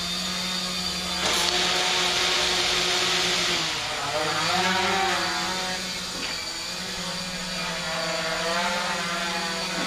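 RC tricopter's electric motors and propellers buzzing in flight, the pitch rising and falling as the throttle changes. It gets louder about a second in.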